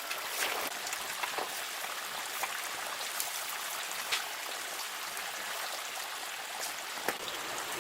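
Steady rush of running water, with scattered small ticks and clicks over it.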